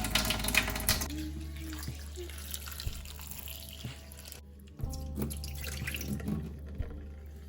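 Water running from a tap into a sink, with splashing, breaking off briefly about four and a half seconds in.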